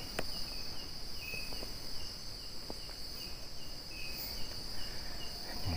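Night insects calling: a steady high-pitched trill with a short chirp repeating about two to three times a second over it.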